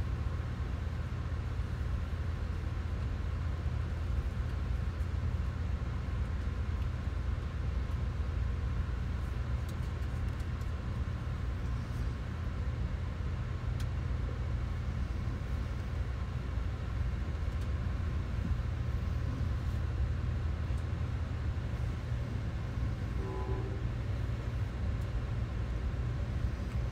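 Steady low rumble of a passenger train in motion, heard from on board.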